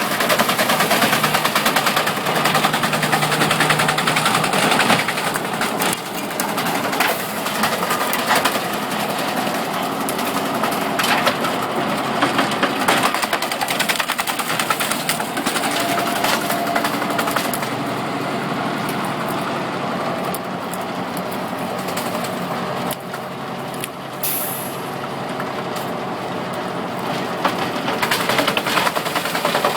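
Truck-mounted 12-inch wood chipper running under load, its engine working hard as the machine chews through wood with irregular cracking and snapping. The load eases somewhat in the second half, and there is a short hiss about two-thirds of the way through.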